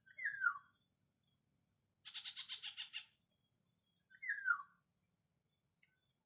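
Black-naped oriole (kapodang) calling: two falling calls about four seconds apart, with a fast rattling chatter of about ten notes in a second between them.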